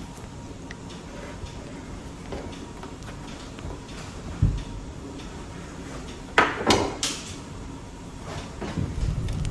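A dull thump a little before halfway, then a quick cluster of sharp knocks and clicks about two-thirds of the way through, like a door or cupboard being handled, over a steady background noise.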